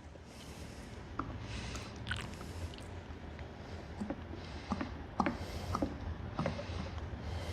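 Quiet handling noise while motor oil is topped up slowly from a bottle: scattered small clicks and knocks with short stretches of faint trickling hiss, over a low steady hum.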